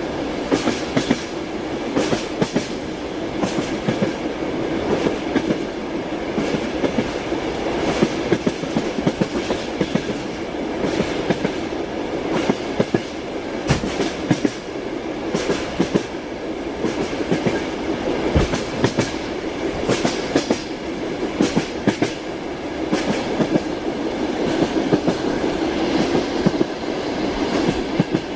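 Passenger train carriage running along the line: a steady rumble with the wheels clacking over rail joints in frequent clusters of knocks.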